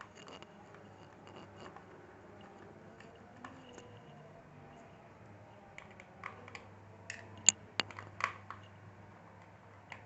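Small plastic clicks and taps from hands working inside an opened laptop, unplugging connectors and freeing internal parts. There are a few sharper clicks in the second half, over a faint steady hum.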